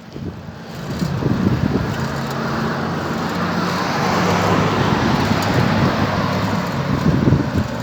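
A motor vehicle passing on the road: engine hum and tyre noise build to a peak about four to five seconds in, then fade.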